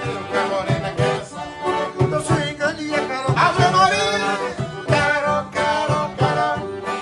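Forró pé de serra music: accordion melody over a steady low drum beat, with a voice singing.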